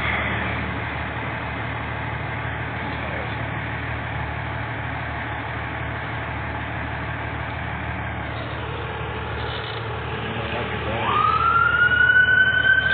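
A steady low vehicle rumble, then about eleven seconds in a fire apparatus siren winds up in pitch and holds a high, loud wail.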